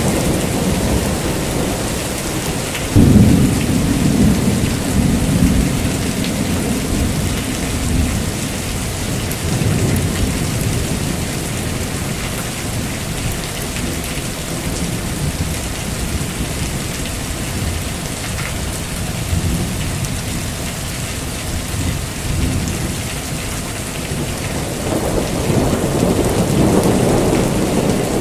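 Heavy rain falling steadily with thunder: a sharp thunderclap about three seconds in that rumbles on for several seconds, and another low rumble building near the end.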